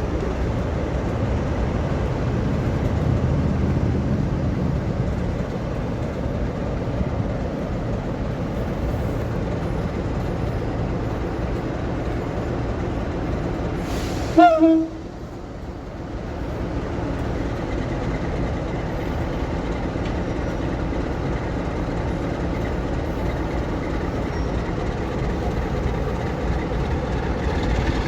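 Train running with a steady rumble, broken about halfway by a short horn blast, after which the sound dips briefly and then builds again.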